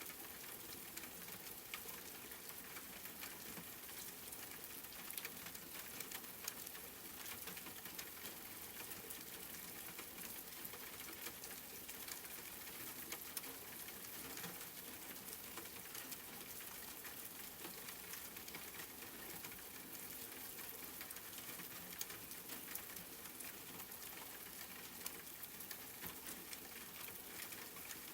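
Steady rain: a soft, even hiss with many separate drops tapping sharply throughout.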